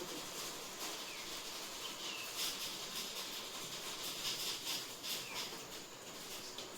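Faint, steady outdoor hiss with a few short, falling chirps.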